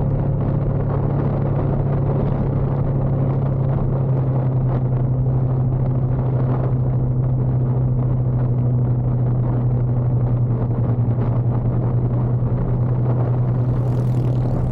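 Motorcycle engine running at a steady speed, a low drone that holds one pitch throughout.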